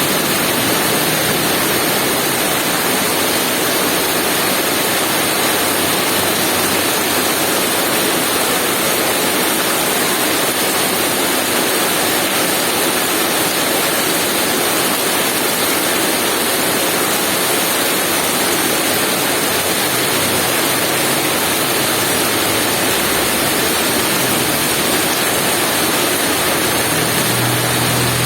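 Heavy rain falling steadily, a dense even hiss with no breaks. A low rumble rises underneath near the end.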